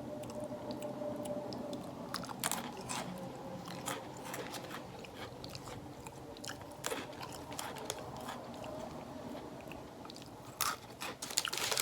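A person chewing small crunchy snack sticks close to the microphone: faint, irregular crunches throughout, with sharper, louder crackles near the end.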